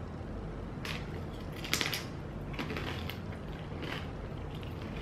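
People eating potato nachos with their fingers: a few short crackly clicks of chewing and handling the food, the loudest just under two seconds in, over faint steady background noise.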